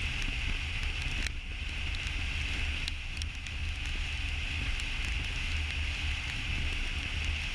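Steady road and wind noise of a car driving at highway speed: a constant low rumble with a hiss over it.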